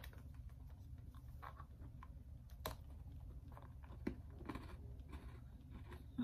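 A person chewing a bite of cookie, faint, with scattered soft crackles and one sharper click a little before halfway through.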